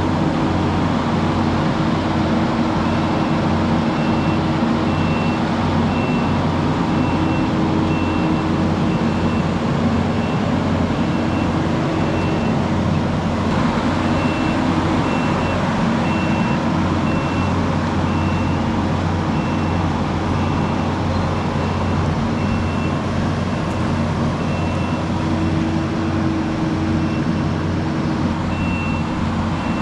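Diesel engine of heavy earthmoving equipment running steadily under work, with a backup alarm beeping about one and a half times a second, pausing briefly now and then.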